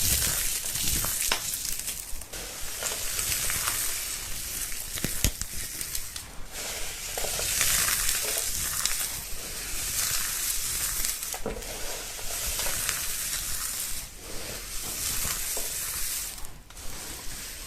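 Dry, crumbly material being crushed and crumbled by hand: a dense, fine crackling like frying, broken by a few sharper cracks.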